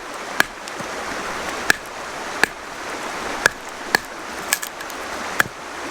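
A 7Forge Nordic Bushcrafter carbon-steel knife cutting kindling from a piece of firewood, with about seven sharp cracks at uneven intervals as pieces come off.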